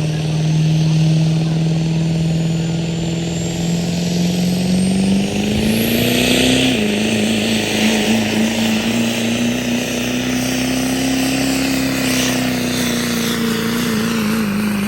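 Pulling truck's engine running hard under load as it drags the weight sled down the track. The revs hold steady, climb, drop sharply once about seven seconds in, then climb slowly and hold high.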